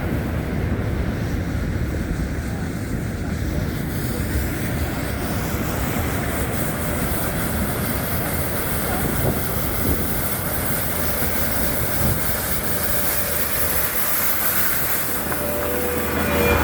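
Steady rumble and hiss of passing traffic, with the hiss growing stronger from about four seconds in.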